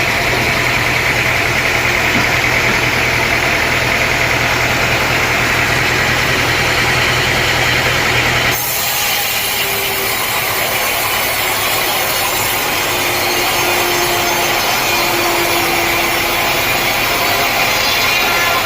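A sawmill engine running steadily. After about eight and a half seconds the sound switches abruptly to a saw cutting through timber, a steady noisy rasp.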